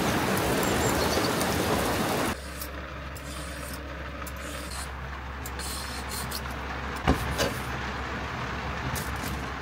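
Heavy rain, a loud steady hiss that stops abruptly about two seconds in. After it comes a quieter low steady hum, with a few short scrapes in the last few seconds as a carrot is shaved into strips.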